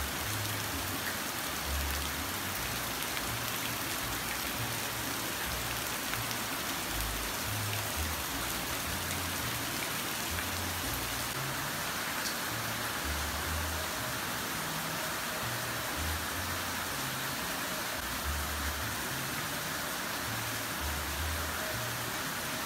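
Steady rain falling on palm foliage and splashing into puddles on the ground, with irregular low rumbles underneath.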